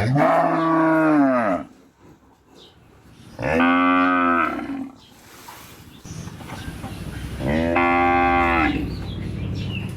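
A cow mooing three times, each moo about a second long with a pitch that rises and then falls. A low steady rumble runs underneath in the second half.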